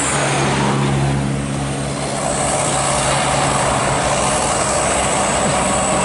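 A large road vehicle going by close: a steady low engine hum with loud tyre and road noise, the hiss dipping briefly about a second in.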